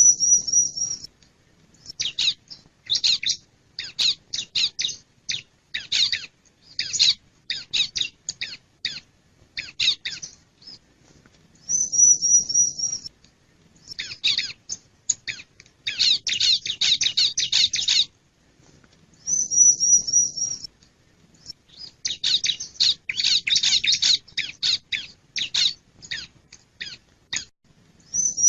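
Male ciblek (bar-winged prinia) calling: a short, high, even trill about a second long, then runs of rapid sharp chips. The pattern repeats with brief pauses between phrases, and the trill recurs about twelve, nineteen and twenty-eight seconds in.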